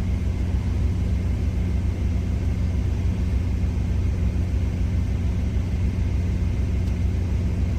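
Steady low drone of an idling truck's diesel engine, running evenly without change.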